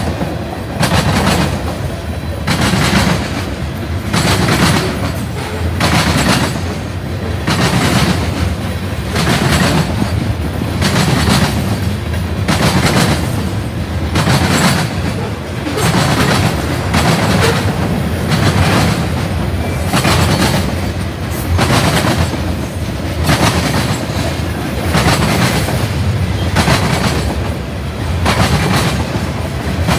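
Freight train of tank cars and covered hoppers rolling past, its steel wheels clacking over the rail in a steady, repeating clickety-clack rhythm.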